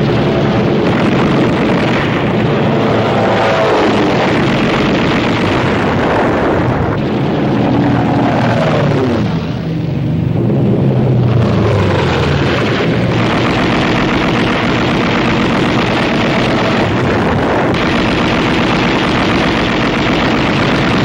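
Air-battle sound effects: heavy bomber engines droning, with fighter planes diving past whose engine pitch falls as they go by, over gunfire and explosions.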